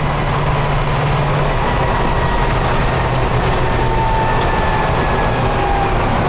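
The fuel-injected Chevrolet 350 small-block V8 of a 1967 Toyota FJ45 running steadily under way, heard from inside the cab with road noise. A faint thin whine drifts slightly down in pitch.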